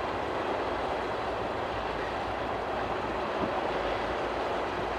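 Freight train's tank cars rolling past, a steady rumble of wheels on rail.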